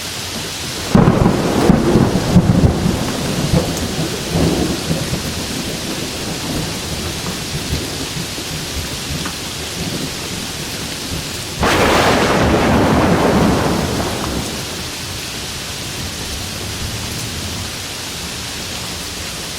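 Steady heavy rain with two claps of thunder: a sudden crack and rumble about a second in that dies away over a few seconds, and a second long rumble a little past the middle.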